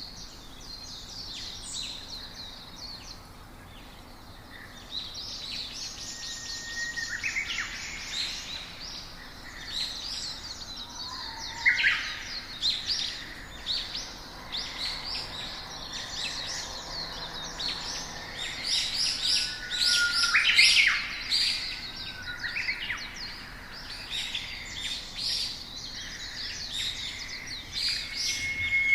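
Small songbirds chirping and singing, several calls overlapping. Sparse for the first few seconds, then a dense run of quick chirps with a few short whistled notes.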